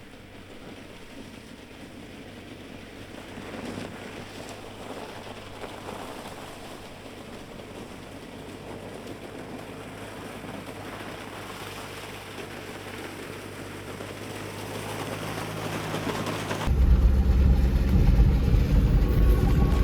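A van running, a steady low engine hum under a noise that slowly grows louder. About three seconds before the end, loud background music cuts in suddenly.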